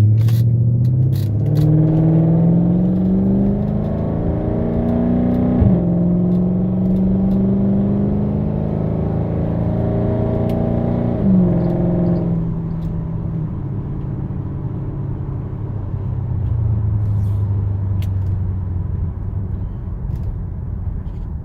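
2004 Infiniti FX45's 4.5-litre V8 through an aftermarket Invidia exhaust, heard from inside the cabin with the windows up, accelerating hard. The pitch climbs, drops sharply at upshifts about six and eleven seconds in, then settles to a steady lower cruise note with a deep tone and no drone.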